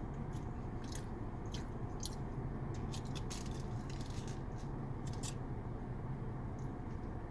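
Close-up chewing and biting of a burrito: wet, squishy mouth clicks coming in quick clusters, busiest through the middle and thinning out near the end, over a steady low hum.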